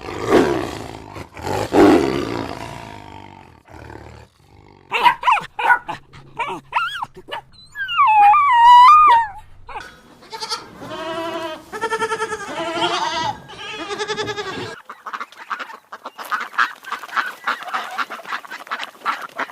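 Several different animal calls cut one after another: rough, noisy calls in the first few seconds, wavering high cries that are loudest around the middle, a run of wavering pitched calls, then a fast rasping chatter near the end.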